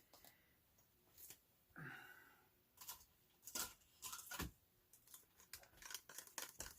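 Faint clicks and taps of paint-pouring supplies being handled, with a brief breathy noise about two seconds in and a quicker run of light ticks over the last two seconds.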